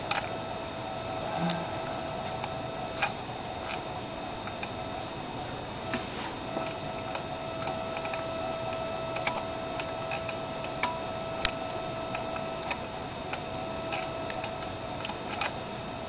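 Electrical hum from an RC transmitter bleeding into the camera's electronics: a steady held tone over a noise floor, with irregular sharp ticks and clicks scattered through it.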